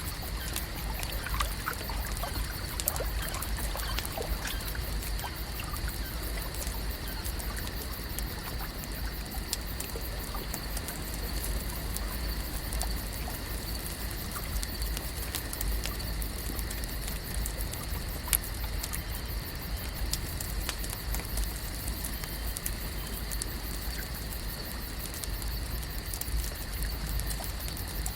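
Lake ambience: water lapping and trickling steadily, with small scattered clicks, a faint steady high hum and a constant low rumble underneath.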